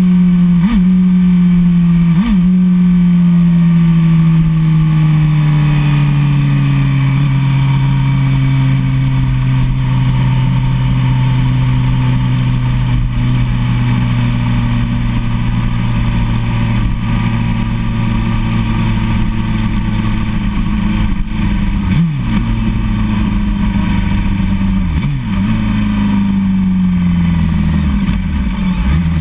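Inline-four sportbike engine heard from on board while riding, its note easing down steadily as the bike rolls off and then cruising at an even pitch. It dips briefly a few times, likely at gear changes, and swells once more near the end.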